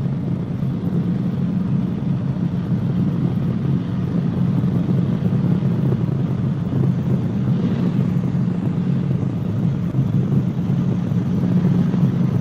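Cabri G2 helicopter in flight, heard inside the cabin: the steady low drone of its four-cylinder Lycoming piston engine and rotors.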